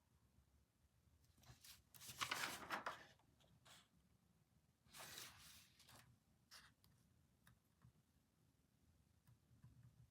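Paper rustling at a desk, twice: once about two seconds in, the louder, and again about five seconds in, with a few small taps between in an otherwise quiet room.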